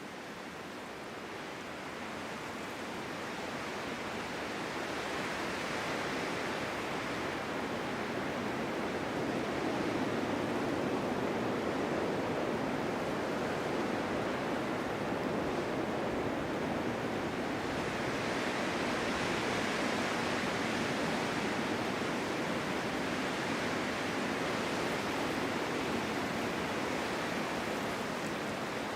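Winter wind blowing in a steady rushing noise that fades in over the first few seconds, then swells and eases in slow gusts.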